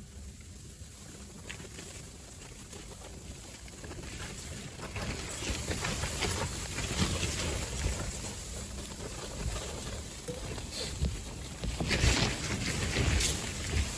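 Strong gusty wind rushing and buffeting the microphone, with a low rumble. It picks up about four seconds in and gusts hardest near the end.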